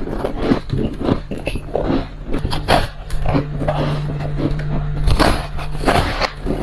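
Ice being bitten and crunched close to the microphone: an uneven run of sharp crunches, several a second, over a steady low hum.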